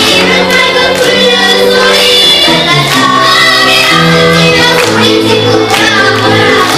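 Children's choir singing a children's song in sustained, held notes over a steady instrumental accompaniment.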